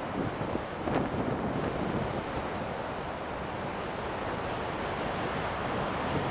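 Strong wind blowing in a steady rush, a little louder about a second in.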